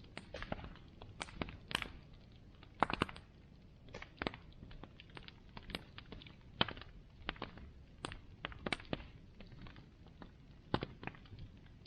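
Bonfire crackling: irregular sharp snaps and pops of burning wood, some louder than others, over a low steady hiss.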